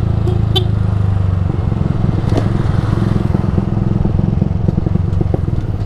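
Yamaha R15 V3 single-cylinder engine running through an aftermarket Ronin Musashi exhaust while riding. About a second and a half in, the steady note turns into a choppier pulsing, with a few light clicks.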